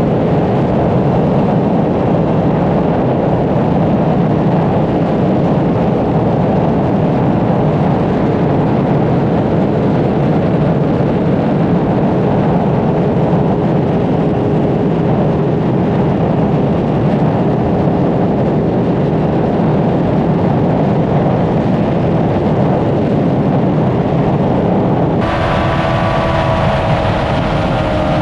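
Honda CBR600RR sport motorcycle at highway speed: its inline-four engine running steadily under heavy wind noise. About three seconds before the end the sound changes abruptly, and the engine note comes through clearer and slowly falls in pitch.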